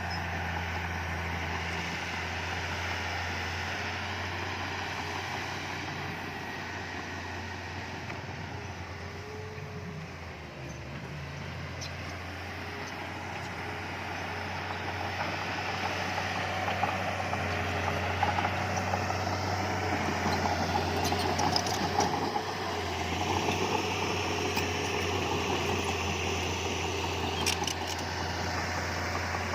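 Diesel engine of heavy earthmoving equipment running steadily with a low drone, growing louder from about halfway through, with a few sharp clicks near the end.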